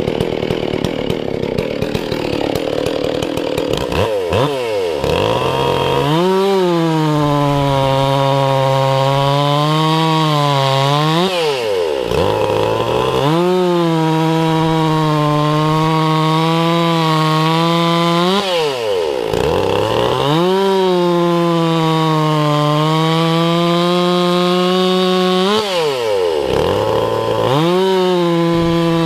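Chainsaw with a freshly ground chain cutting wood at full throttle, in about four cuts some seven seconds apart. Between cuts the engine speed drops sharply and then picks up again.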